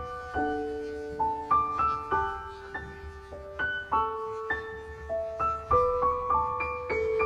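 Background piano music: a slow, gentle melody of single notes and soft chords, each note struck and left to ring out.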